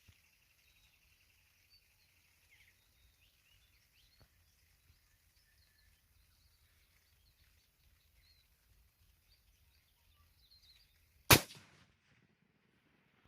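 A single rifle shot from a 6.5 Creedmoor rifle, sharp and loud with a short echo, about eleven seconds in. Before it, faint bird chirps.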